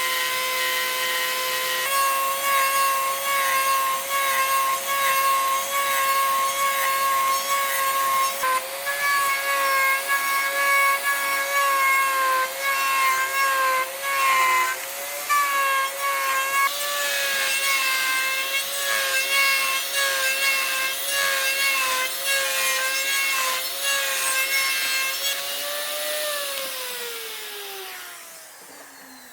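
High-speed electric power tool working wood: a steady high whine over the hiss of cutting, the pitch dipping slightly now and then as it takes load. Near the end it is switched off and spins down, the whine falling in pitch as it fades.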